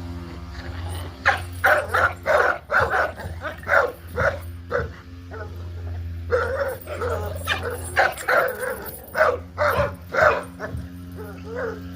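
Puppies yipping and barking in quick runs of short calls, with a short lull midway. A steady low hum sits underneath.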